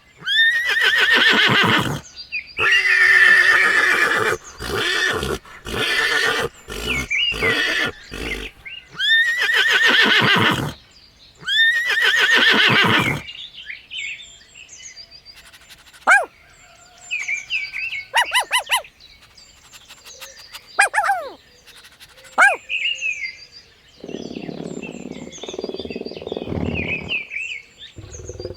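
Horse whinnying again and again in long quavering calls, followed by a run of quieter short high chirps and a lower animal call near the end.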